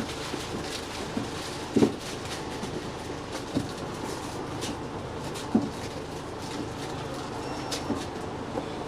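Scania OmniDekka double-decker bus running in service, heard from on board: a steady engine and road rumble with rattling and three sharp knocks from the body, the loudest about two seconds in.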